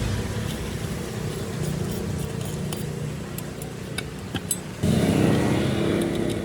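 A steady mechanical rumble with scattered sharp clicks and ticks; about five seconds in, a louder humming drone comes in.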